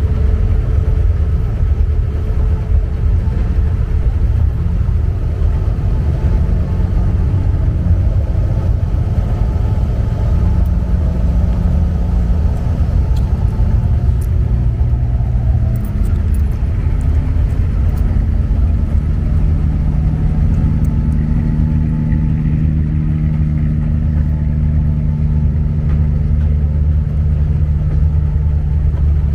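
Inboard diesel engine of an abra running steadily under way, a loud low rumble. About halfway through, its pitch shifts and then settles into a new steady tone.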